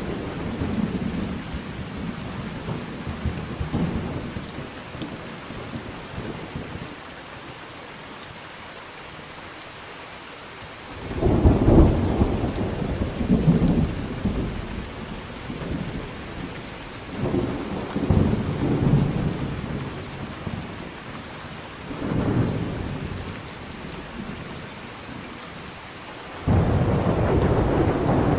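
Thunderstorm: steady rain with repeated low rolls of thunder. A rumble fades over the first few seconds, a sudden loud clap comes about eleven seconds in and rolls on in several swells, and another sudden peal starts near the end.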